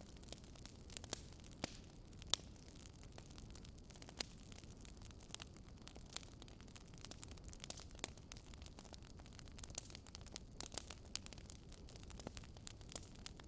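Wood fire burning in a fireplace, crackling and popping irregularly over a soft low rumble of the flames.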